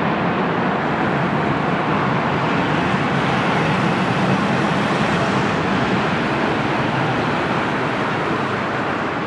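Jet engine noise of an airliner on final approach to land, a steady rushing sound that swells slightly about four seconds in and begins to fade near the end.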